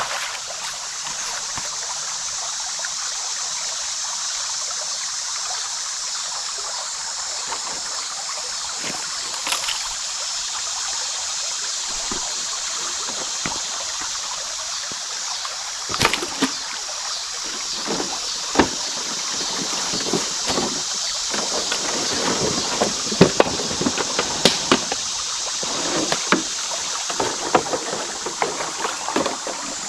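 Creek water running steadily after a flood, with scattered splashes and knocks of someone wading through it, coming more often in the second half.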